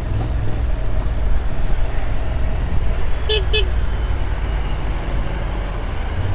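Steady low rumble of a motorcycle riding along with wind on the helmet camera, and two short horn toots in quick succession about three seconds in.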